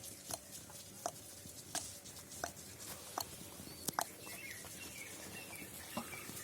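Peafowl pecking food off a hard surface: scattered sharp taps and clicks, roughly one every half second to a second. Faint bird chirps join from about four seconds in.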